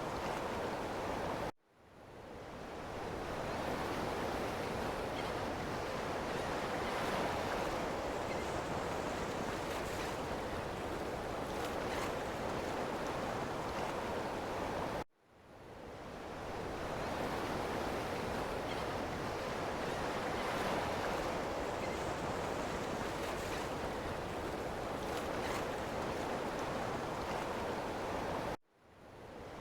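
Ocean surf washing steadily, a dense rushing noise of breaking waves. It drops out abruptly about every thirteen and a half seconds, then swells back in over a second or so, like a recording looped end to end.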